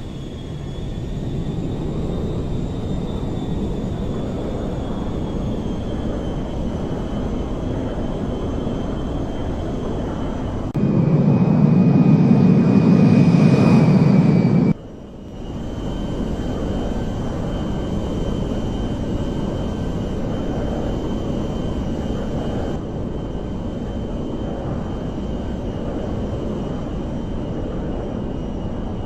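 Airliner jet engines running, a steady rumble with a high whine on top. Near the middle a louder, deeper stretch of about four seconds cuts in and stops abruptly.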